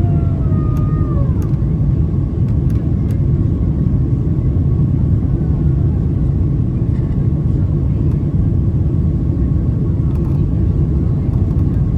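Inside the cabin of a Boeing 767-300ER climbing out after take-off: a loud, steady rumble of the engines and rushing air. A falling two-tone whine fades out in the first second and a half.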